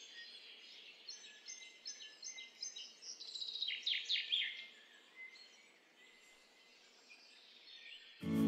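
A songbird singing faintly: a quick run of repeated high chirps, then a flurry of fast sweeping notes, over a low background hiss. Acoustic guitar music comes in abruptly near the end.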